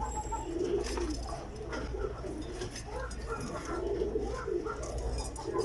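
Many domestic pigeons cooing at once, their low coos overlapping continuously, with scattered faint clicks.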